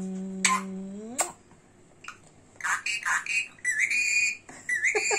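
A pet parrot's high chirps and short whistled glides, starting after a short quiet gap. It is preceded in the first second by a low, steady voice-like tone that rises at its end.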